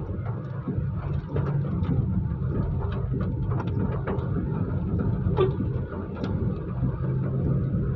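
Afternoon rain: a steady low rumble with scattered light taps of drops landing.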